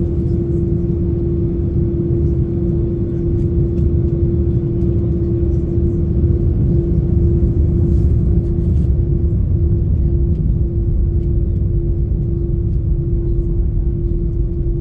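GE CF6-80 turbofan engines of an Airbus A330-300 heard from inside the cabin: a loud, steady low rumble with a constant droning tone that neither rises nor falls.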